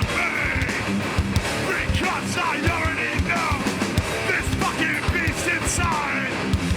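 Live heavy hardcore band playing loudly: distorted electric guitars over fast, hard-hitting drums.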